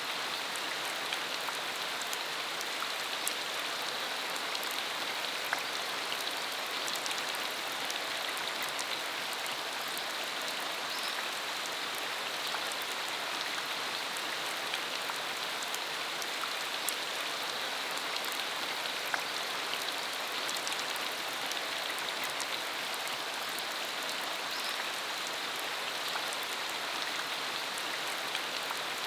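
Steady rain falling on a dirt road, an even hiss with scattered close drops ticking.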